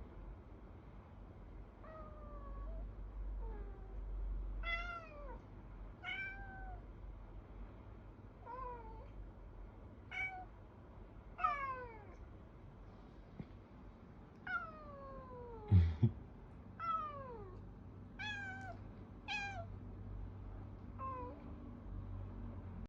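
Cat meowing over and over, about a dozen short calls that each slide down in pitch, spaced a second or two apart. A low bump comes with the loudest call about two-thirds of the way through.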